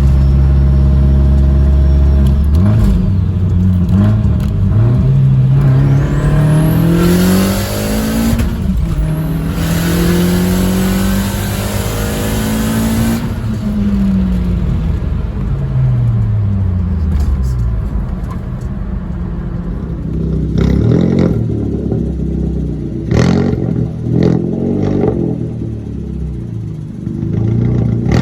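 Turbocharged Audi A4 1.8T four-cylinder with a big GT3071R turbo pulling hard: the engine pitch climbs for a few seconds, breaks for a gear change about eight seconds in, then climbs again under a loud rushing hiss. Around thirteen seconds the engine backs off and its pitch falls, and later comes a run of short sharp bursts.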